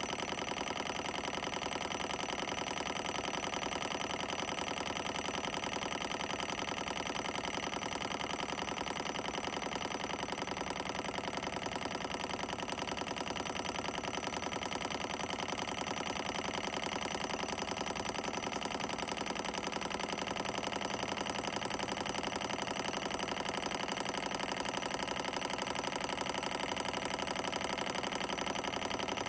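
Solar Engines Model 1 model Stirling engine running steadily, its moving parts making a fast, even clatter.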